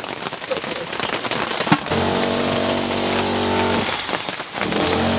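Rain pattering, then about two seconds in a motor engine starts running steadily with a high whine over it; it drops out briefly near the end and then runs again.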